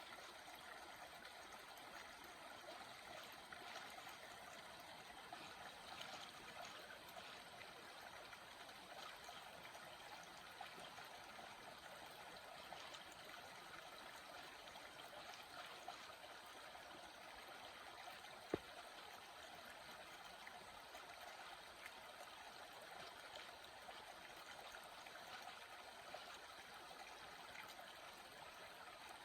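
A small water stream running steadily, a faint even rush of flowing water. One sharp click stands out about two-thirds of the way through.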